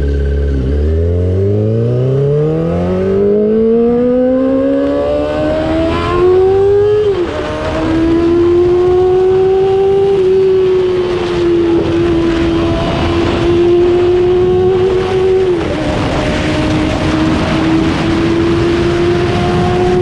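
2003 Yamaha YZF-R6's inline-four engine, breathing through an SC-Project exhaust, accelerating hard: the revs climb for about seven seconds, drop with an upshift, then hold high and steady. A second upshift comes about three-quarters of the way through.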